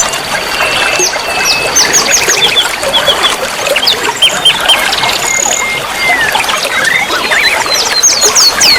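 Dense chorus of small songbirds chirping and twittering, full of quick falling whistled notes, with a rapid run of them near the end, over a background of trickling water.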